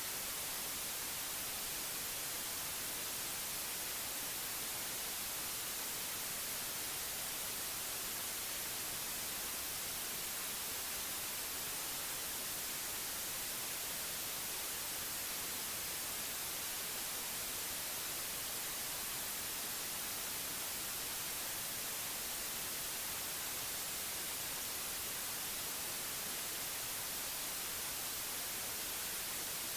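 Synthetic white noise: a steady, unchanging hiss, strongest in the high end.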